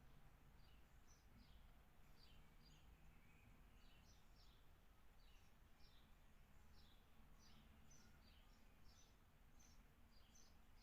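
Faint chirping of small birds: many short, high chirps sliding downward, several a second, over a low steady hum.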